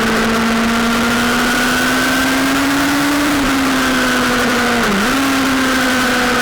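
Sportbike engine running hard at a steady high pitch, rising slowly, then dipping briefly about five seconds in before picking back up.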